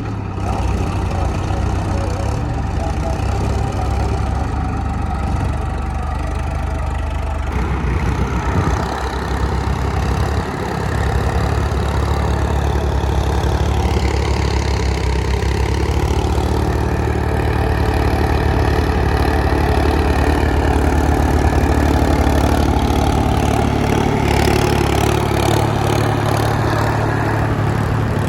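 Tractor diesel engine running steadily at low revs, with its note shifting about eight to ten seconds in.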